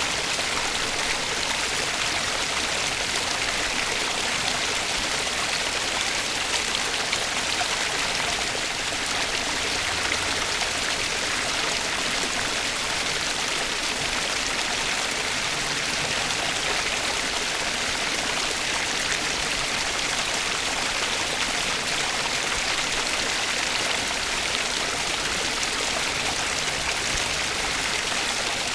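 Flowing water rushing steadily and evenly, a continuous hiss with no breaks or changes.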